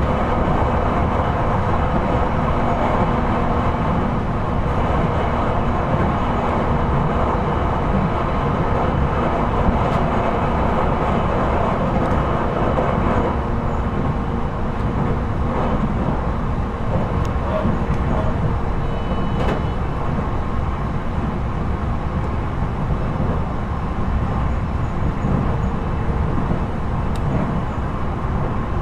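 Running noise inside an E721-series electric train car (motor car KuMoHa E721): a steady rumble of wheels on rail with a faint steady hum, a little quieter in the second half.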